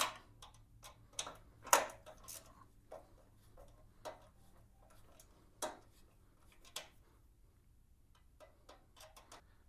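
Light metallic clicks and taps of hand tools as a bolt is tightened against a nut held with a 10 mm wrench, in irregular ones and twos. The loudest click comes a little under two seconds in.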